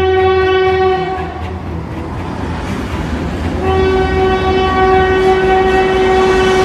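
Train horn sounding in two long, steady blasts, the first ending about a second in and the second starting just past the middle, over the low rumble of a moving train.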